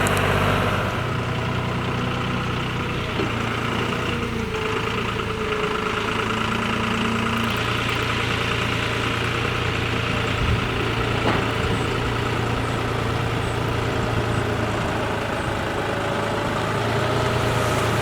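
Diesel engines of farm machinery, a rice combine harvester and a tractor, running steadily at a fairly constant speed.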